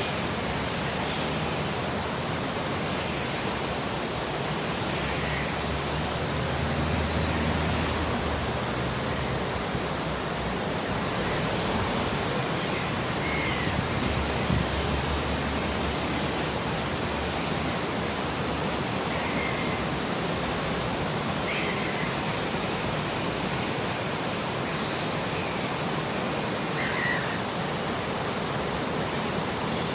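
Mountain river water rushing steadily, with a few faint, brief bird calls scattered over it.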